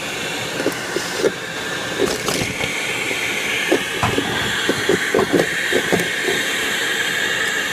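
A vacuum running steadily while it sucks walnuts and mouse-nest debris out of a truck's cowl, the nuts and bits clicking and clattering irregularly as they are pulled in.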